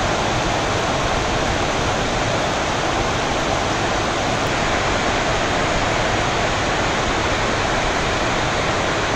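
Heavy rain pouring down steadily, with water streaming off the edge of a corrugated metal roof.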